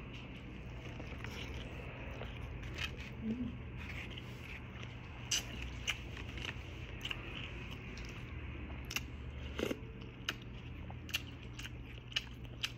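A person eating: scattered short clicks and smacks of chewing over a steady low hum.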